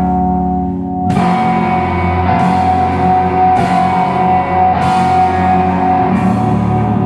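Live noise rock band playing loud: electric guitars and bass hold a droning chord with one high sustained note over it. About a second in the drum kit comes in, with a cymbal crash roughly every second and a quarter.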